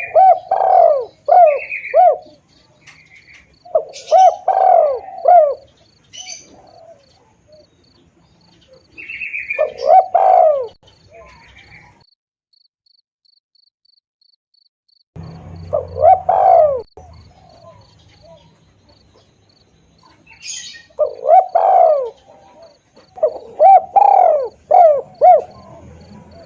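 Spotted dove (tekukur) cooing in repeated phrases of several low coos, a lure call for attracting wild doves, with a brief complete dropout of about three seconds midway. A cricket chirps steadily in the background, about three pulses a second, with occasional higher chirps from small birds.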